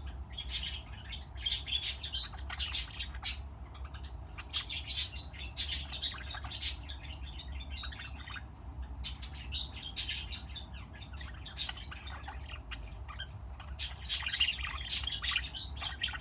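Pet budgerigars chattering: bursts of short, quick high chirps and warbles, coming in clusters with brief pauses between.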